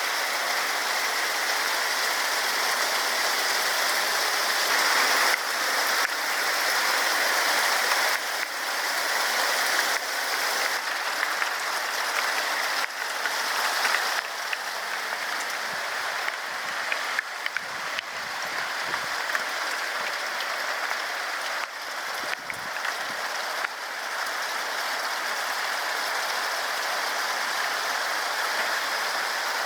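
Heavy rain falling outside an open window: a steady hiss of rain with scattered sharper drops tapping close by.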